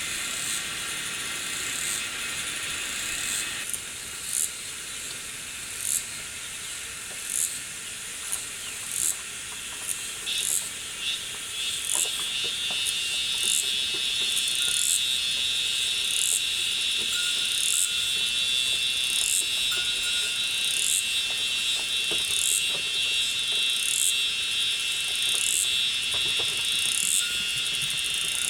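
Insects calling: a short, sharp, high chirp repeating about once a second, more evenly later on, and a steady high buzz that comes in about twelve seconds in and holds.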